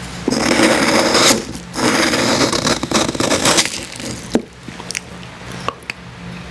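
Close-miked eating of an ICEE slushie: two long spells of icy crunching and scraping, the first about a second long and the second about two seconds, then softer chewing and mouth clicks.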